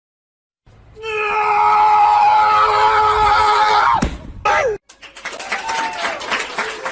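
A loud scream held steady for about three seconds, starting after a brief dead gap and ending in a sharp falling glide, then a jumble of shorter cries and noises.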